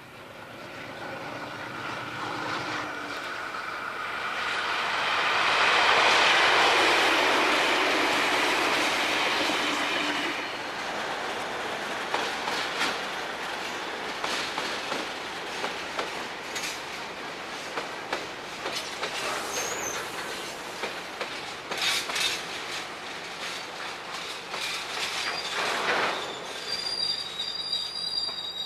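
A diesel-hauled train passes by. It is loudest about six seconds in, then its wheels click over the rail joints, and a high-pitched wheel squeal sets in near the end.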